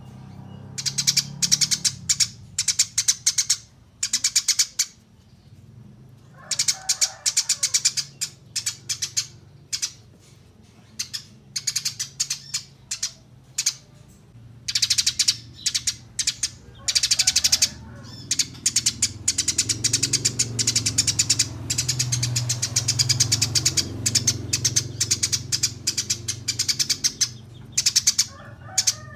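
Eurasian tree sparrow chirping clearly in long runs of rapid, high chirps broken by short pauses, over a faint low hum.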